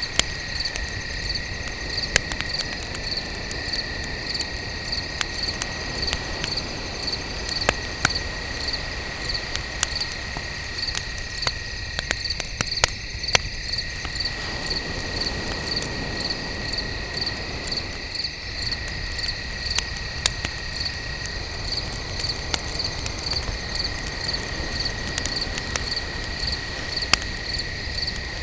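Crickets chirping in a steady pulsing rhythm over a second, unbroken high insect trill, with frequent sharp crackles and pops from a burning wood fire.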